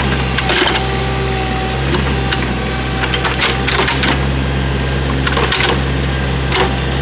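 Excavator engine running steadily with a steady whine on top, while woody brush cracks and snaps about six times as it is torn out.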